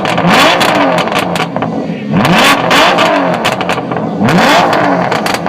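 Sports car engine revved hard while standing still: three blips about two seconds apart, each rising and falling in pitch, with exhaust crackles.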